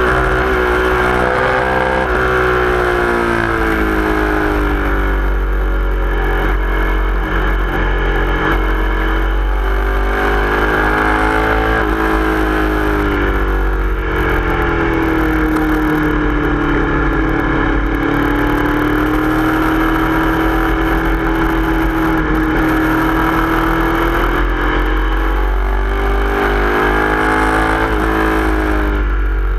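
Sport motorcycle's engine running hard at speed, heard from the rider's seat, its pitch slowly rising and falling with the throttle through the corners, holding lower for several seconds in the middle and climbing again near the end. A steady low wind rush lies underneath.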